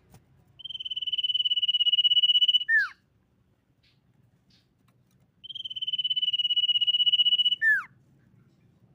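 Common iora calling twice, about five seconds apart. Each call is a long steady high whistle of about two seconds that ends in a quick falling note.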